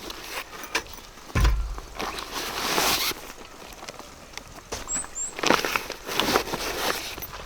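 Rustling and crinkling of plastic packaging and gear being handled while unpacking a backpack, with scattered clicks and a dull thump about a second and a half in. A bird chirps twice about five seconds in.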